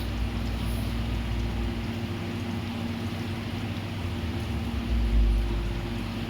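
A steady low mechanical hum under a constant hiss, with gusts of low rumble on the microphone about half a second in and again from about five seconds.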